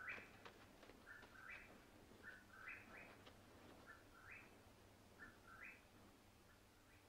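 Faint bird calls: a short chirp that steps up from a lower note to a higher one, repeated about every second and a bit, five or six times.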